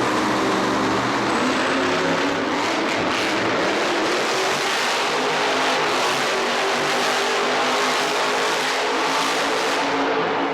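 A loud motorsport engine running steadily under load, over a dense wash of arena noise.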